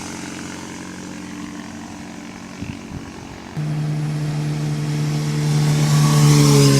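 Motorcycle engine running at a steady speed, then getting louder about halfway through and rising slightly in pitch toward the end as it is given more throttle.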